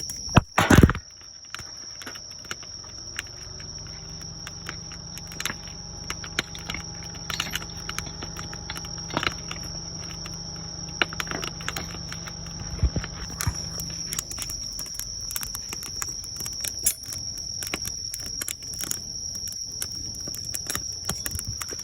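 Wood fire crackling and popping with irregular sharp snaps, over a steady high insect trill. A brief loud rushing burst comes about half a second in, and a low steady hum runs from about three and a half seconds to fourteen seconds.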